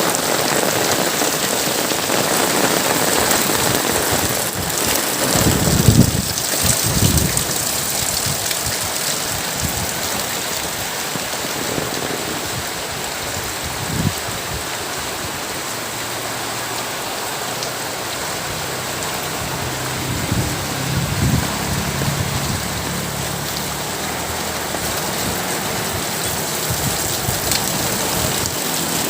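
Heavy rain pouring down steadily, with a few low rumbling swells of wind, the loudest about six seconds in.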